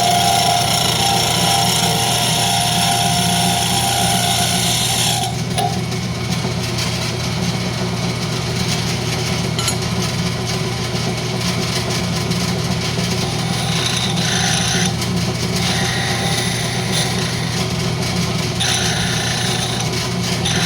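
Wood lathe running steadily while a turning tool cuts the spinning rosewood tenon down to size: a loud cut with a whine for about the first five seconds, then the motor hum with two short cuts near the end.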